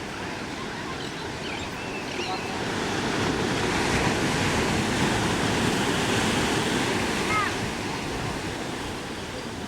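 Ocean surf washing, swelling louder in the middle and easing off toward the end, with a few faint short chirping calls over it.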